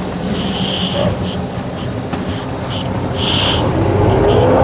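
Semi-truck diesel engine running, heard from inside the cab, getting louder with a rising whine about three seconds in as it revs up.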